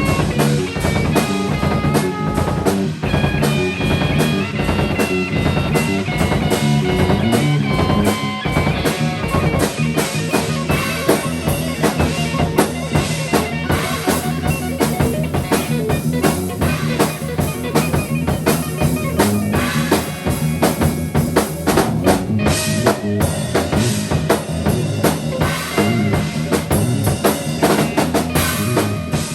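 Band improvising live: a drum kit playing a busy beat with bass drum, snare and rim hits over held bass notes, with higher sustained notes over the first several seconds.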